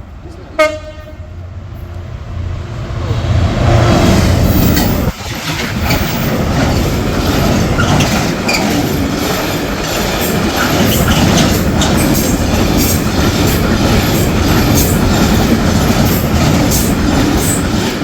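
A freight train passing over a level crossing, preceded by a short horn blast. Then a loud, steady rumble of wagons with a constant clatter of wheels over the rail joints and the crossing.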